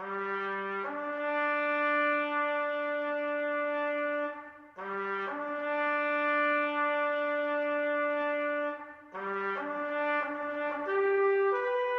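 A solo brass instrument playing a slow call in long held notes: a short low note rising to a long higher note, the phrase played twice, then a third phrase moving through several notes near the end.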